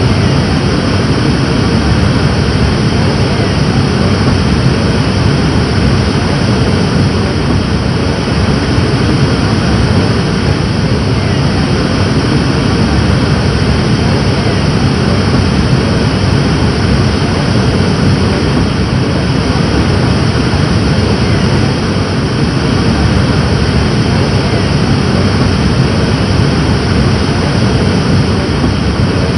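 Rushing water, a loud steady roar with most of its weight in the low end and no change throughout.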